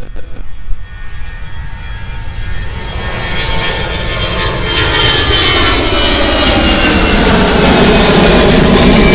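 Airliner engines growing steadily louder as the plane comes closer, with a high whine that slowly falls in pitch. There are a few sharp knocks right at the start.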